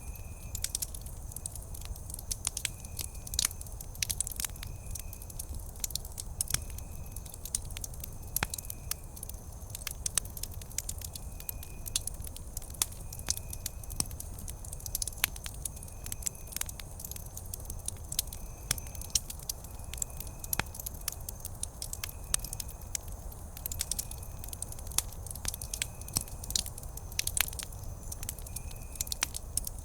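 Wood campfire burning, crackling with many sharp irregular pops over a low steady rumble of the flames. A faint short high chirp repeats about once a second throughout.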